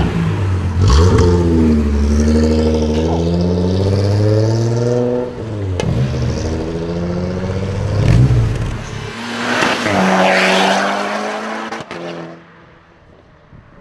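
Volkswagen Golf performance car engine revving, its pitch climbing and dropping several times. About nine seconds in comes a louder surge with rising pitch, then the engine sound fades out near the end.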